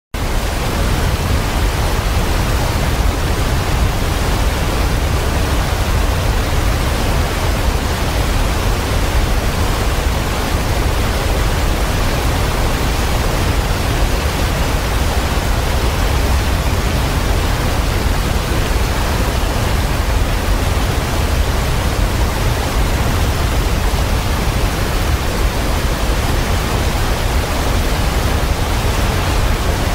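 Waterfall: a loud, steady rush of falling water, heaviest in the low end, cutting in suddenly out of silence at the start.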